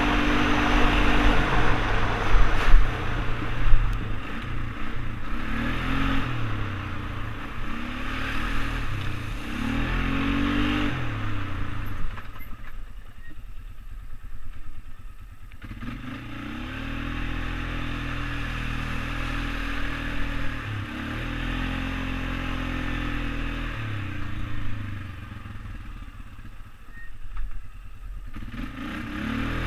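ATV engine running under way, its pitch climbing and dropping repeatedly as the throttle is worked and the gears change. It eases off to a lower, quieter run twice, about halfway through and again near the end.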